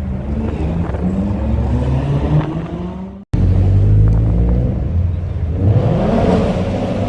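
Car engines running and accelerating, the engine note climbing in pitch in steps. About three seconds in the sound cuts out for an instant, then a loud low engine rumble carries on.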